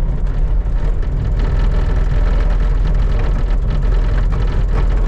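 Skid steer engine running steadily, with a scattered clatter of small knocks through most of it.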